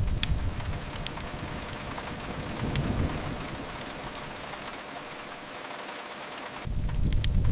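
Steady rain with the sharp crackles and pops of a wood fire scattered through it. A deep rumble fades over the first second, swells briefly around three seconds in, and rolls in again strongly near the end.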